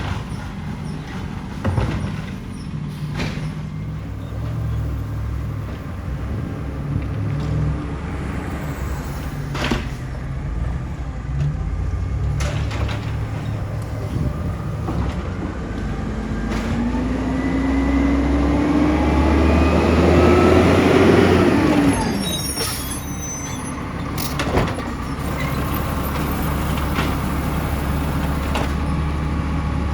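Side-loader garbage truck's diesel engine running with scattered knocks, then revving up in a rising whine for about five seconds before dropping back sharply. A short hiss and rattle follows.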